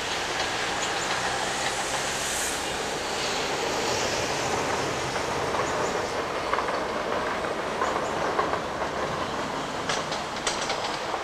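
Electric train running, its wheels clattering over rail joints, with a few sharper clicks about ten seconds in.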